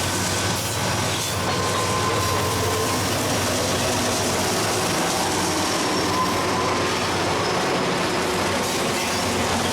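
Freight train rolling past on the rails: a steady, loud rumble and rattle of wagons, with faint thin wheel squeals about a second in and again around six seconds in.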